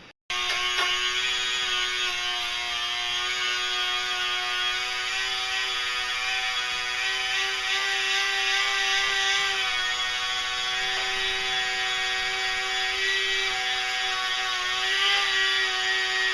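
A small power tool spinning a tiny wire brush wheel, running at a steady high whine as it scrubs rust off a radial arm saw's threaded elevation rod. The pitch dips slightly now and then as the brush is pressed on.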